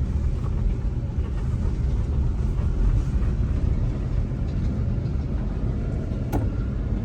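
Car on the move, heard from inside the cabin: a steady low rumble of engine and tyres on the road, with a single click about six seconds in.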